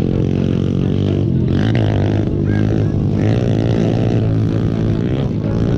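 Mini bike engine running and revving, its pitch rising and falling a few times.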